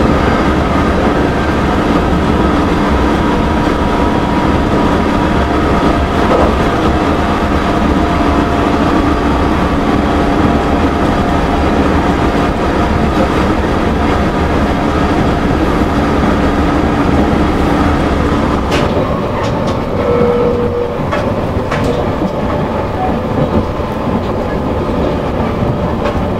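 Electric train running along the track, heard from inside the driver's cab: a steady rumble of wheels on rail with a steady whine. About two-thirds of the way through the whine stops and a few sharp clicks follow.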